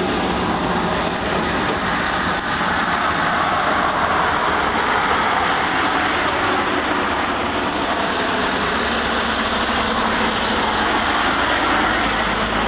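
Steady motor vehicle engine noise, running evenly without any sudden events.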